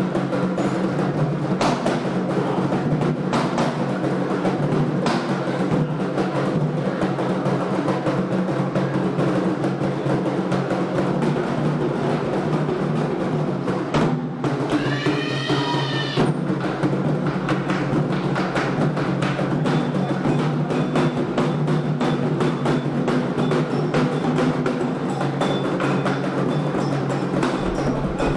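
Candomblé ceremonial drumming: atabaque hand drums playing a fast, unbroken rhythm, with a sharper wood-block-like strike mixed in. A brief high sound that slides up and down in pitch rises over the drums about halfway through.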